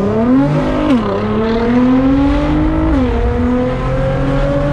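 Straight-piped Nissan GT-R's twin-turbo V6 accelerating hard through the gears. The pitch climbs steadily, drops sharply at quick upshifts about one second in and again about three seconds in, then climbs again.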